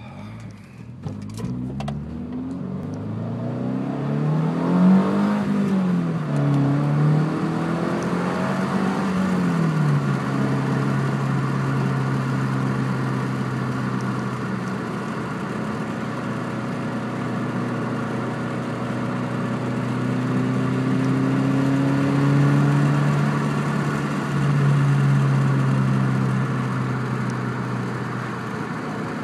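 2006 Subaru Impreza's flat-four engine through an aftermarket TurboXS exhaust. The revs climb and swing up and down a few times over the first ten seconds, then settle into a steady idle.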